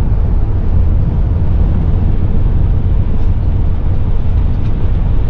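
Steady, loud road and engine noise inside the cab of a Class C motorhome driving at highway speed.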